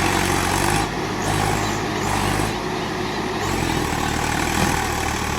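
Tractor diesel engines running steadily.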